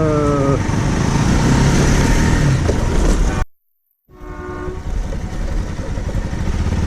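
Vehicle noise and wind buffeting a helmet-mounted action camera while riding off from a railway level crossing. A horn's steady multi-tone note, falling slightly in pitch, ends about half a second in. The sound cuts out completely for about half a second past the middle, and a fainter horn note follows.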